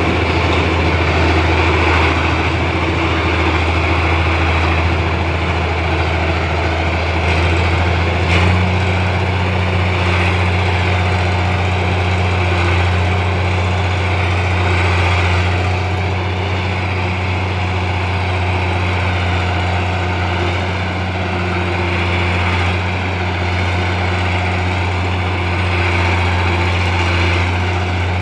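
Diesel engine of a Komatsu D60-8 crawler bulldozer running steadily with a low, unchanging hum. A brief knock about eight seconds in, after which the hum shifts slightly.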